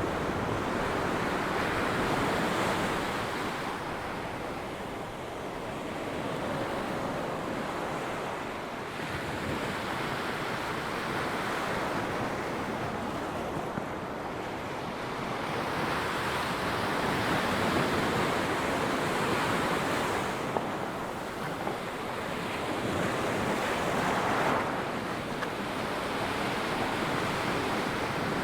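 Ocean waves breaking and washing up on a sandy beach, the surf swelling and easing every several seconds, with wind buffeting the microphone.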